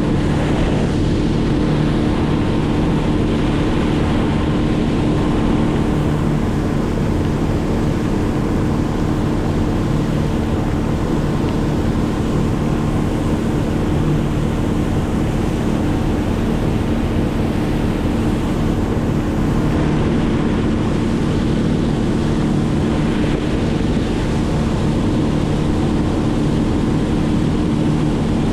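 An engine running at a steady, unchanging speed: a constant droning hum over a rushing noise.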